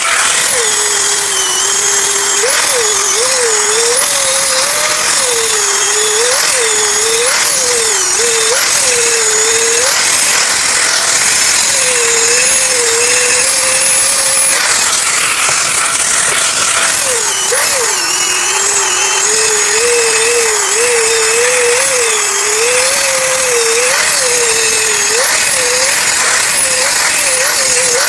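Power grinder grinding a welded steel hydraulic-axe blade to an edge, running continuously with its motor pitch dipping and recovering as it is pressed into the metal. The grinding steadies briefly about halfway through.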